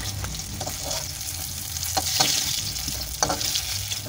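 Fried eggplant pieces sizzling and crackling in hot mustard oil in a kadai while a spatula scrapes them up and lifts them out; the spatula knocks sharply twice, about two seconds in and again just after three.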